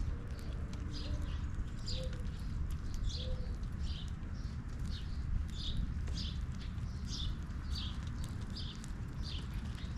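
A songbird calling a short, high note over and over, about one and a half times a second, with faint low cooing of a dove in the first few seconds.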